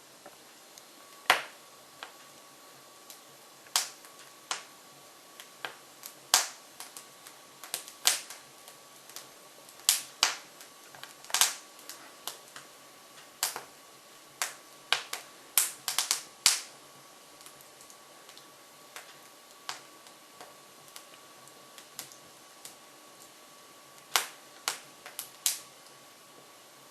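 Hardwood logs crackling in a Jøtul F500 wood stove burning with its front door open. Sharp pops come at irregular intervals, some in quick clusters, with the densest run in the middle.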